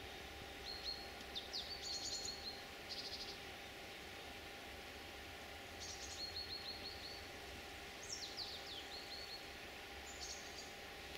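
A small songbird singing four short chirping phrases, each a quick run of high down-slurred notes and a brief trill, over faint steady outdoor background noise.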